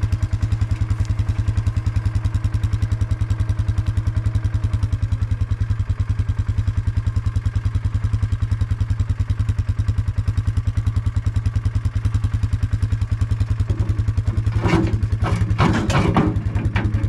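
Mini excavator's diesel engine running steadily, with a faint steady tone above it that drops in pitch about five seconds in. Near the end comes a run of clattering knocks.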